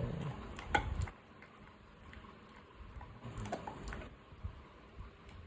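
Dog chewing on a mutton bone: scattered clicks and crunches, with one sharper crack about three-quarters of a second in.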